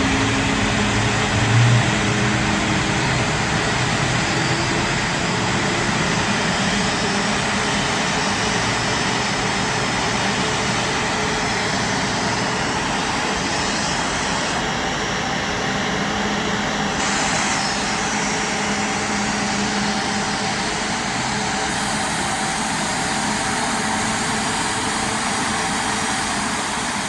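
Airbus A350's Rolls-Royce Trent XWB jet engines running steadily after start-up: an even rushing noise with a few faint steady tones underneath.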